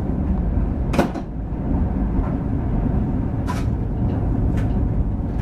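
Passenger train carriage heard from inside as it rolls slowly into a station: a steady low rumble with a few sharp knocks, the loudest about a second in.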